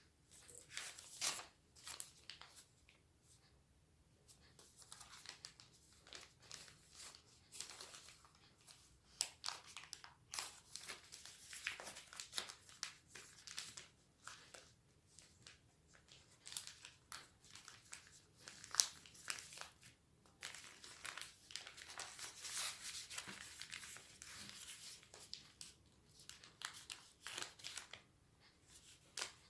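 Sheet of origami paper being folded and creased by hand: irregular rustling and crinkling with short, crisp crackles and brief pauses, the sharpest crackle about two-thirds of the way in.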